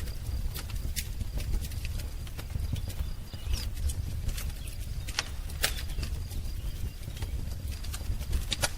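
Wood fire crackling, with irregular sharp pops and snaps over a low steady rumble of the flames. A faint bird chirp comes in about three and a half seconds in.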